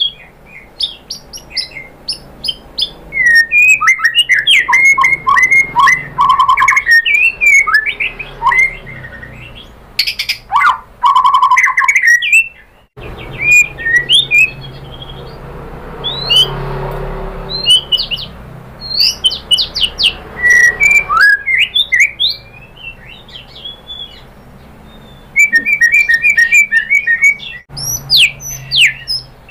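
White-rumped shama singing a fast, varied string of loud whistled phrases, chirps and rapid trills. The song thins out around the middle, where a steady hiss swells and fades, and then picks up again.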